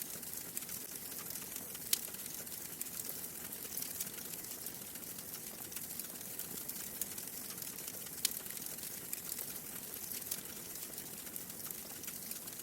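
Wood fire burning in a fireplace: a steady hiss and low rumble of the flames, with scattered crackles and two sharp pops, about 2 s and 8 s in.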